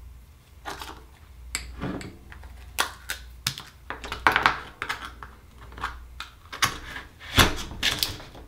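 Irregular clicks, taps and scrapes of hard shell and a metal tool, a dozen or so at uneven spacing, as an Akoya pearl oyster is handled and pried open.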